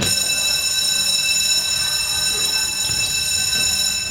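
Electronic game buzzer sounding one long, steady, high-pitched tone that starts abruptly and cuts off after about four seconds.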